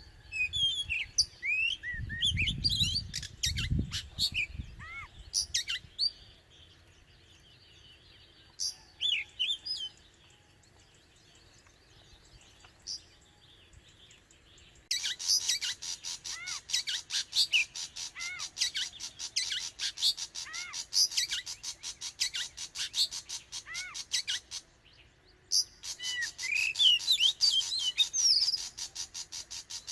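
Oriental magpie-robin singing varied whistled phrases and clicks. A quieter stretch with only scattered notes falls in the middle. From about halfway the song returns over a dense, fast rattle, which drops out briefly near the end and comes back.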